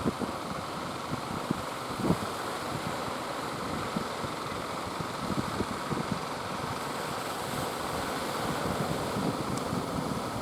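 Steady rushing of wind and sea, with irregular low thuds of wind buffeting the microphone.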